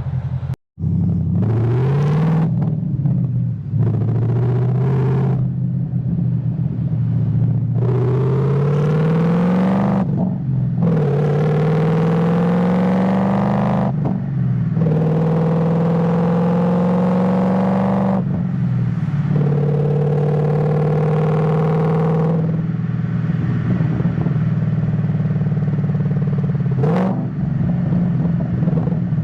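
Ford Mustang GT (S197) V8 accelerating through the gears of its manual gearbox: the engine note climbs and drops back at each upshift, about five times, then holds steady at cruise for several seconds and falls to a lower, steadier note near the end. A split-second cut-out just after the start.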